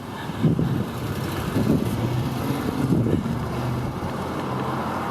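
A motor vehicle's engine running, getting louder about half a second in and holding steady with small rises and falls.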